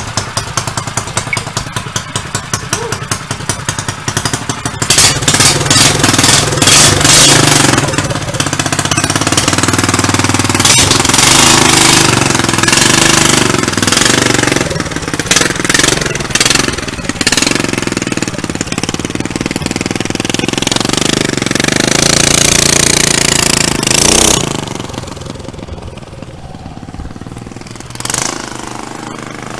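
212cc single-cylinder four-stroke engine of a pit-bike trike idling with a rapid, even popping, then opened up about five seconds in as the trike is ridden, its pitch rising and falling with the throttle. Near the end the engine winds down and drops back to a quieter run.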